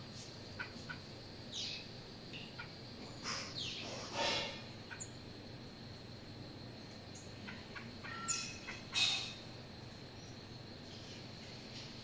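Birds calling: a handful of short, sharp calls that drop in pitch, the loudest about four seconds in and a pair around eight to nine seconds in, over a faint steady background hiss.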